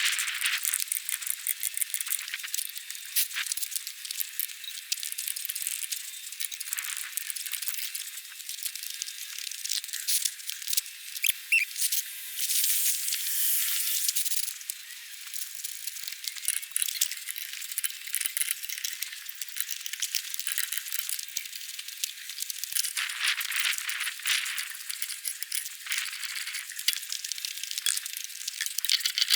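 Irregular metallic rattling and clicking of hand tools and wheel nuts while a car tyre is being changed, with a brief squeak partway through.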